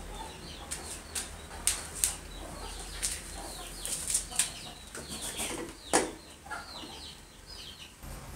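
Birds chirping again and again in short falling calls, with several sharp clicks or snaps among them; the loudest snap comes about six seconds in.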